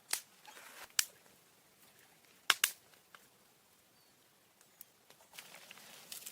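A few sharp clicks or snaps: one about a second in, a close pair about two and a half seconds in, with soft rustling between and a longer stretch of rustling near the end.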